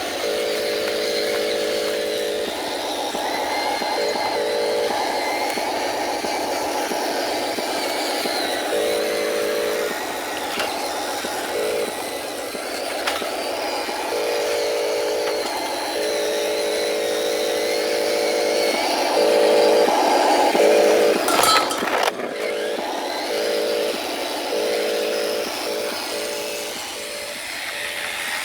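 Radio-controlled model truck running, its small motor droning in stretches that start and stop again and again. There is a sharp knock about 21 seconds in.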